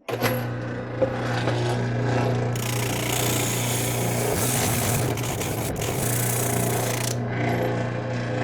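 Spindle sander starting up and running with a steady motor hum. From about two and a half seconds in to about seven seconds, the spinning drum sands two stacked cedar side pieces, adding a loud rasping hiss over the hum.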